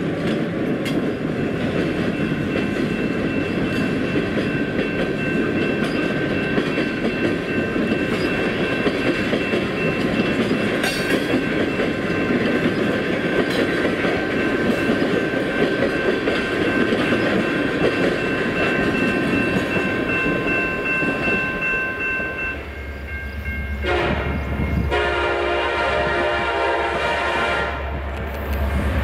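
Freight cars rolling past with a dense rumble of wheels on rail and a steady high-pitched whine over it. After a sudden change about three-quarters of the way through, a CN diesel freight approaches with a low steady engine hum, and its air horn sounds a chord twice near the end.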